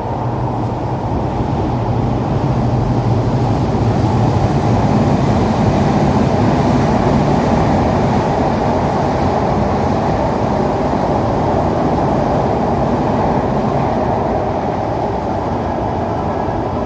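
Heavy rain pouring down as a steady, loud roar that swells slightly partway through.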